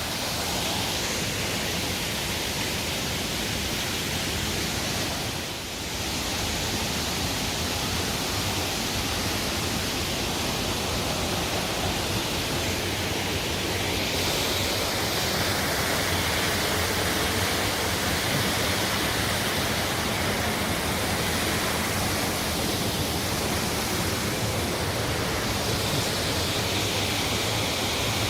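Steady rush of falling or fast-flowing water, an even hiss with a brief dip about five seconds in.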